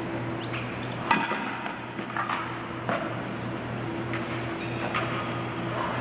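Small tropical birds giving short, scattered chirps, with a few sharp clicks, the loudest about a second in, over a steady low hum.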